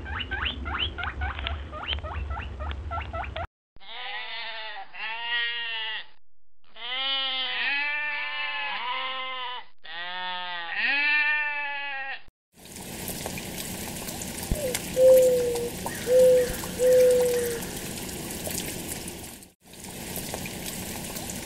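Sheep bleating: a run of long, wavering bleats one after another. Then feral pigeons cooing, a few short falling coos over a steady hiss. A brief rapid clicking over a low hum comes first.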